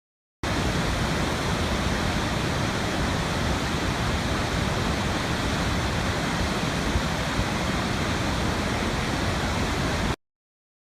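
Steady rushing noise of running water, even throughout. It cuts in abruptly about half a second in and cuts off abruptly near the end.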